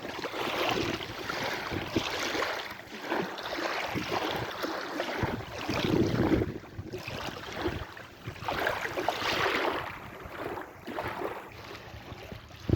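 Sea waves washing in and drawing back, the rush of water swelling and fading every few seconds.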